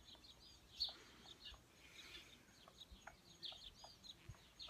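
Faint bird chirps: many short, high calls scattered throughout, with a few soft clicks.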